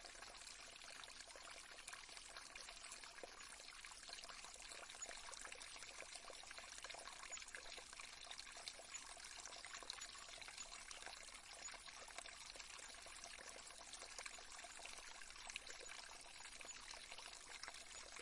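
Faint, steady trickling of a small stream.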